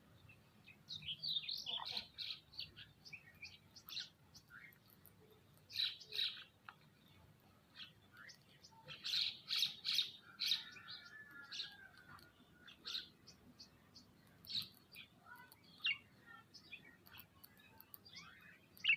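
Birds chirping and calling: many short high chirps in bunches, with one longer wavering call a little past the middle.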